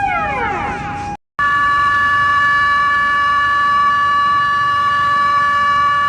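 Siren-like alarm made of several steady tones sounding together. In the first second the tones slide downward, then after a brief cut a new, higher set of steady tones is held unchanged.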